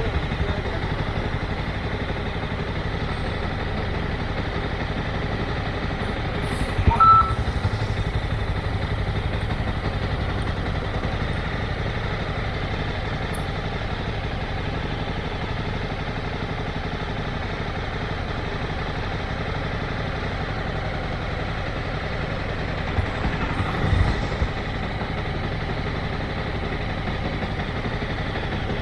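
Motorcycle engine running steadily at low speed, with a short beep and a bump about seven seconds in and another bump a little before the end.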